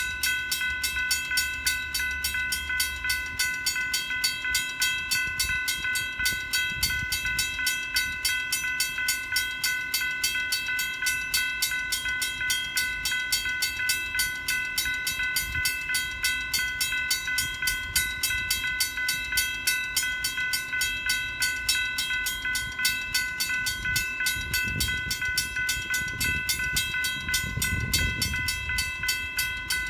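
Railroad crossing bell ringing steadily, about three to four strikes a second, while a Norfolk Southern train rolls past. The cars make a low rumble that grows louder near the end.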